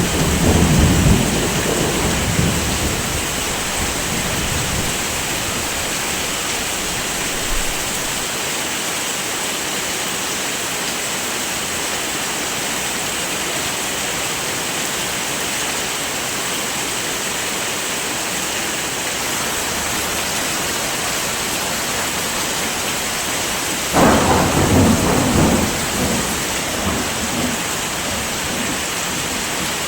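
Steady heavy rain, with thunder rumbling twice: once right at the start and again near the end, each rumble lasting about three seconds.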